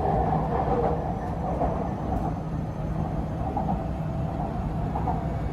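MRT Purple Line metro train running between stations, heard from inside the car as a steady rumble with a low hum.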